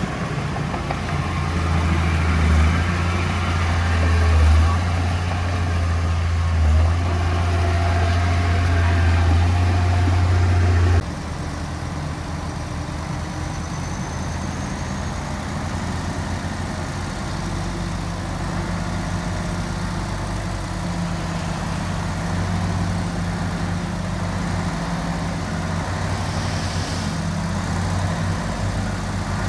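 Heavy diesel engine of earthmoving machinery running steadily with a low hum. About a third of the way in, the sound cuts abruptly to a quieter engine running.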